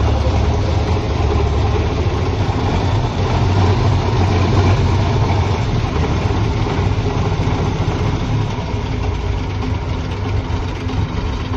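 MMZ D-245 four-cylinder turbodiesel in a GAZ-66 truck idling steadily.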